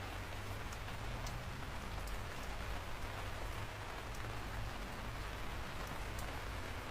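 Steady rain falling, with scattered sharp drop ticks over a constant hiss and a low rumble underneath.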